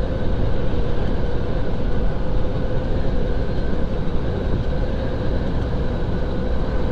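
Steady low rumble and road noise of a semi truck heard from inside its cab.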